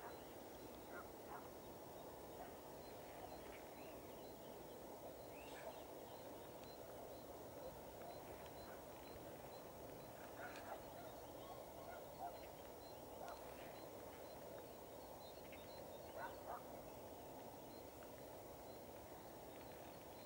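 Quiet open-country ambience: a faint steady hiss with scattered short, distant bird calls every second or two.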